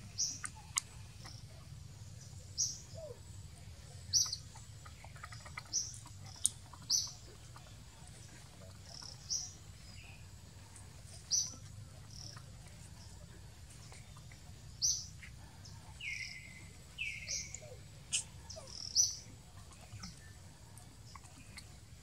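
A bird chirping: about a dozen short, high chirps at irregular intervals, with two longer, lower calls about three-quarters of the way through, over a steady low background rumble.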